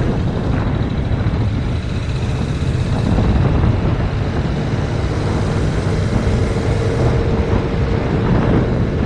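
Heavy wind noise buffeting a GoPro Hero 5 Black's microphone on a 2019 Yamaha MT-07 at riding speed, a loud steady rumble. The motorcycle's 689 cc parallel-twin engine runs faintly underneath.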